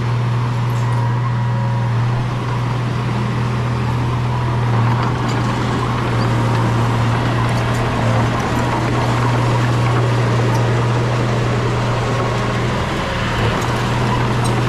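Heavy diesel engine of a bulldozer running steadily under load: a constant low drone with mechanical noise over it and scattered faint clicks.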